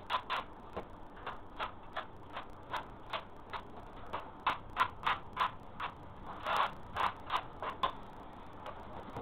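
A hand tool working a hard floor surface in short repeated strokes, about two to three a second, with a quicker, louder run of strokes about six seconds in.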